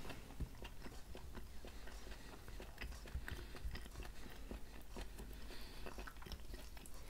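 Close-miked chewing of crab-stick salad: soft, wet mouth clicks and smacks, irregular and quiet.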